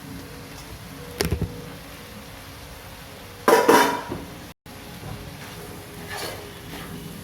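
Spatula clattering and scraping in a pan as rice is stirred into the fried vegetables. There is a short clatter about a second in, and a louder one around three and a half seconds in.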